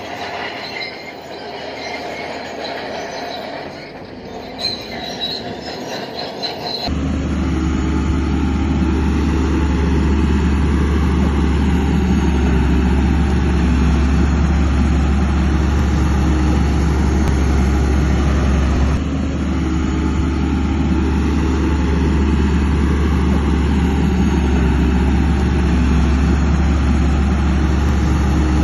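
Bulldozer's steel tracks squealing as it moves for the first several seconds. About seven seconds in the sound changes abruptly to its diesel engine running steadily with a deep drone.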